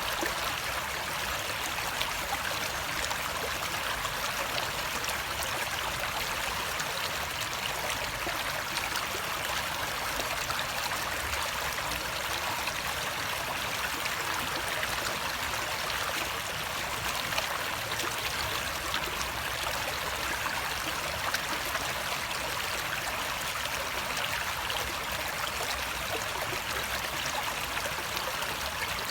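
Flowing water, a steady, unbroken rushing noise.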